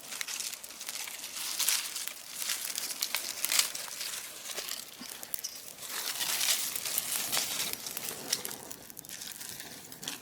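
Dry vines and brush crackling and crinkling in a bonfire, a dense run of irregular snaps and hissy bursts with louder flurries about two, three and a half and six seconds in.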